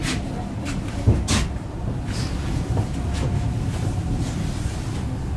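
Hamburg S-Bahn class 474 electric multiple unit heard from inside the car while running: a steady low rumble with a few sharp clacks and knocks, the loudest about a second in.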